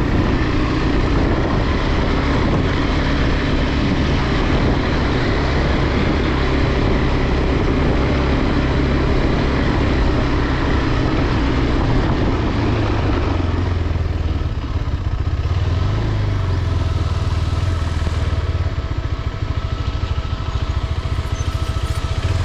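Motorcycle engine running under load as it rides up a rough dirt slope, with a heavy rushing noise over it for about the first fourteen seconds; after that the noise drops and the engine note settles steadier.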